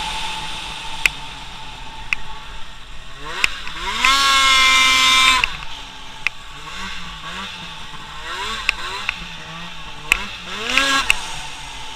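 A small petrol engine revving up and down: a loud high-rev run about four seconds in, then wavering revs and another rise near the end, with a few sharp clicks now and then.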